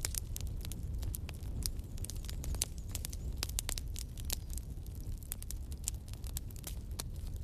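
Campfire crackling: wood popping in quick, irregular snaps over a steady low rumble of the burning fire.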